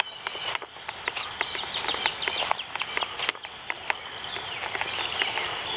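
Outdoor birds chirping in short, quick falling calls over a steady high hiss, with irregular sharp clicks and taps throughout.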